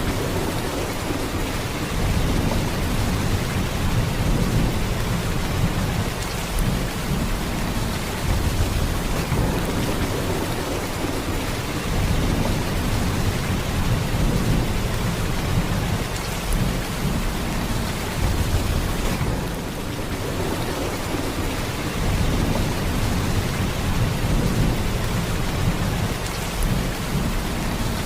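Steady heavy rain downpour: a dense, even hiss of rain with a low rumble underneath, easing briefly about two-thirds of the way through.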